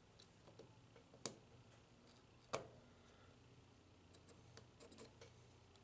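Quiet handling of small vending-machine rotor and gearbox parts while a pin is fitted: two sharp clicks about a second apart early on, then a few faint ticks.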